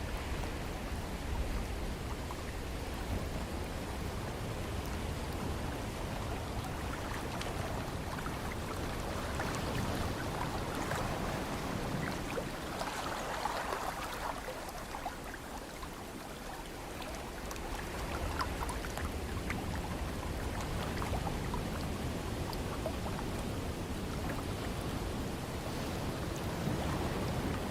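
Ocean surf washing in as a steady wash of water noise, swelling about halfway through and again near the end, with a low rumble underneath and fine crackle of water.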